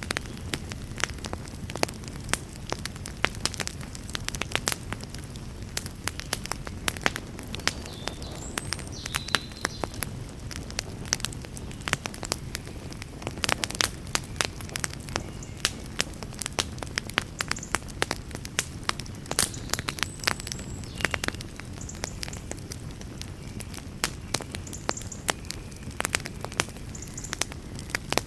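Wood fire burning, with frequent irregular sharp crackles and pops over a steady low rush.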